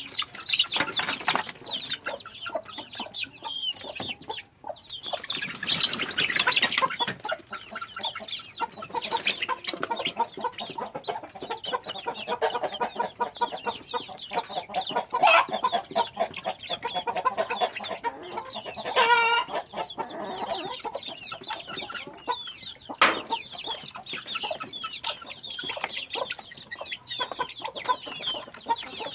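A flock of chickens clucking and calling continuously, many short overlapping calls, with one louder drawn-out squawk about nineteen seconds in.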